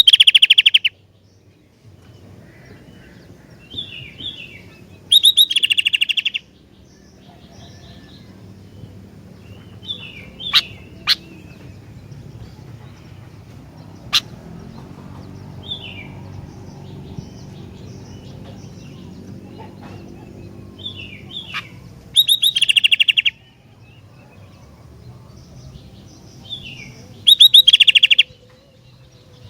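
Sooty-headed bulbul (kutilang) singing: four loud bursts of rapid chattering notes, each about a second long, with softer short phrases in between. A low steady hum runs underneath, and a few sharp clicks come in the middle.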